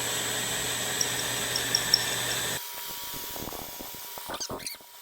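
Electric drill running steadily as it bores into metal, then cutting off suddenly about two and a half seconds in. A few light clicks and knocks follow.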